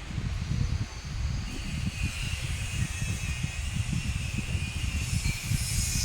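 Wind buffeting the microphone in uneven gusts, with a steady high hiss that grows louder about one and a half seconds in.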